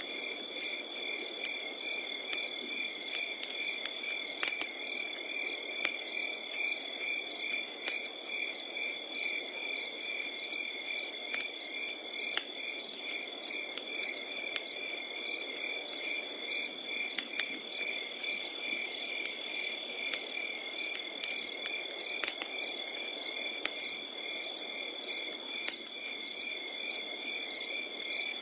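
Crickets chirping in a steady, even rhythm over a continuous high trill, with a wood fire crackling in scattered sharp snaps.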